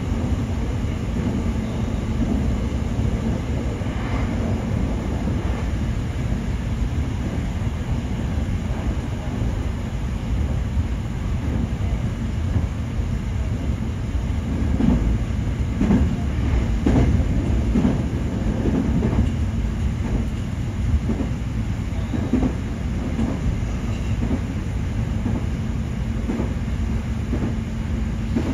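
Nankai 8300 series electric train running at speed, heard from inside the front car: a steady rumble of wheels on rail, with a run of clacks over rail joints about halfway through.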